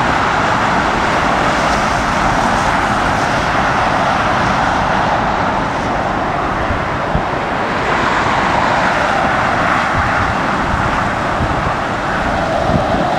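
Jet airliner's engines running as it rolls out along the runway just after touchdown, a steady roar that swells and eases, with wind buffeting the microphone.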